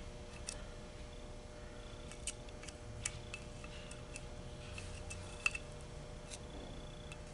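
Faint, scattered metallic clicks and taps as a tool prods the spool valves in a CVT transmission valve body, over a steady low hum.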